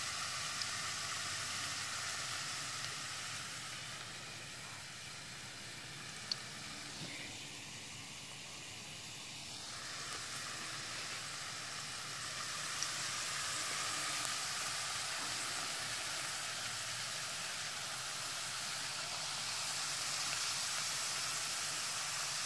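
Thin potato slices sizzling steadily in hot oil in a Dutch oven, in oil that may be a little too hot, easing off slightly in the middle, with one small click about six seconds in.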